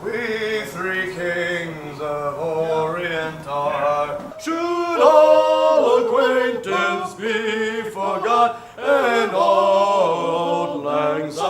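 Male voice singing unaccompanied, a slow melody of held notes that step and slide from one pitch to the next.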